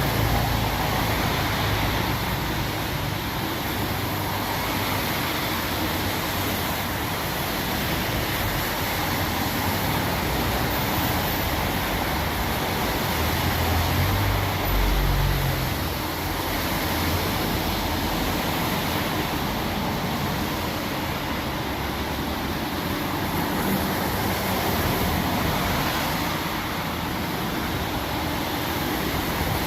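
Steady hiss of heavy rain, with a brief low rumble about halfway through.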